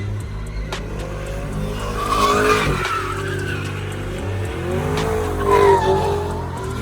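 Car tires squealing as a car slides and spins, the squeal wavering in pitch and swelling loudest twice, over the steady low rumble of the engine.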